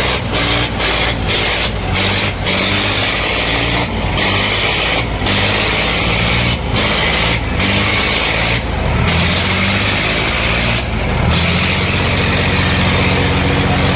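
Eicher 557 tractor diesel engines running, with the engine note stepping up and down, then settling to a steadier note about eleven seconds in.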